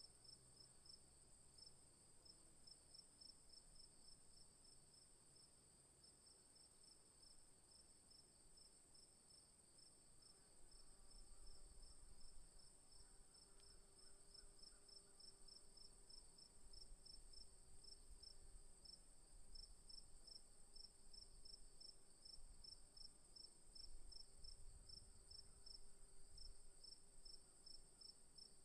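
Faint night insects, crickets, calling steadily: one continuous high trill and a slightly lower chirp pulsing evenly several times a second. A faint low rumble joins from about ten seconds in.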